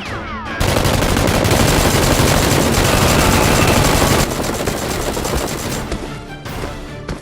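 Rapid, continuous machine-gun style gunfire, a dense volley that starts about half a second in and drops away about four seconds in, followed by scattered single shots.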